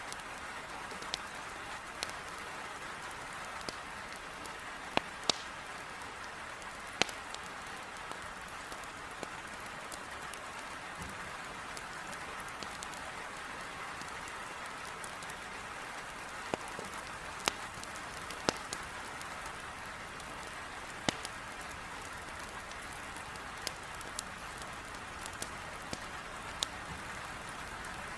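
Heavy rain hissing steadily against a window, mixed with a wood fire in a fireplace crackling, with sharp, irregular pops every second or two.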